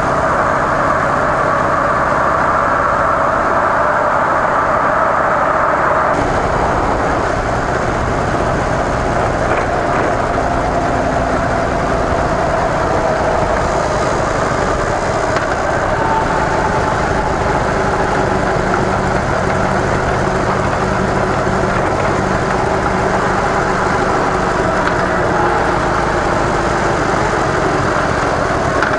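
Harley-Davidson CVO Softail Deluxe's V-twin engine running through its stock mufflers, heard steadily from on the bike; the low end grows heavier about six seconds in.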